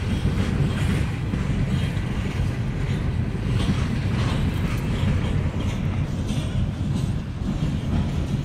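Empty coal hopper cars of a freight train rolling past: a steady low rumble of steel wheels on the rails with a few faint clicks.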